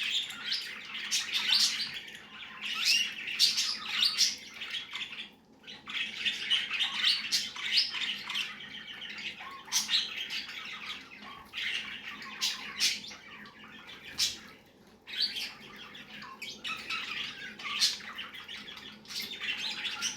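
Budgerigar chattering and chirping in a fast, continuous warble of short squawks and tweets, pausing briefly twice.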